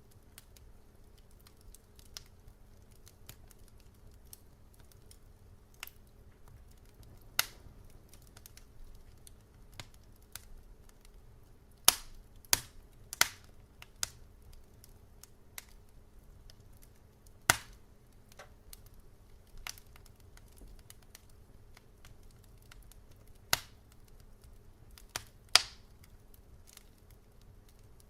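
Wood fire crackling: irregular sharp pops and snaps over a faint low hiss, with a quick run of loud pops about halfway through and more loud snaps near the end.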